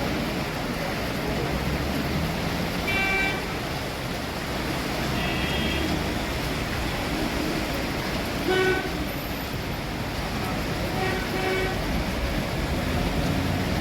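Vehicle horns tooting several times in short blasts, the loudest a little past the middle, over a steady rush of road traffic noise.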